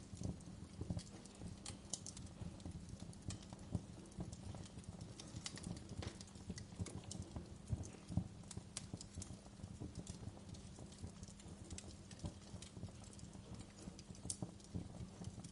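Wood fire crackling: irregular pops and snaps of varying strength over a low, steady rumble of burning.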